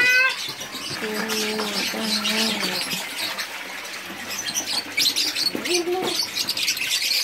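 Birds chirping with many short high calls, with a few lower, level cooing calls like a dove's, two of them about a second in and one near the end.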